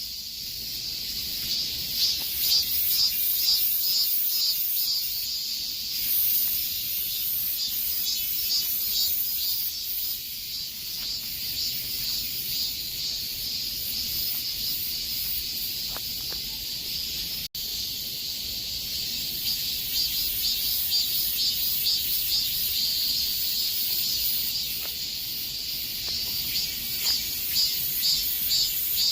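A chorus of cicadas buzzing steadily, high-pitched with a fast pulsing throb. The sound drops out for an instant about two-thirds of the way through.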